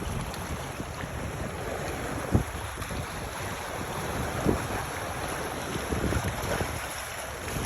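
Wind buffeting the microphone over the wash of water, with two brief knocks about two and a half and four and a half seconds in.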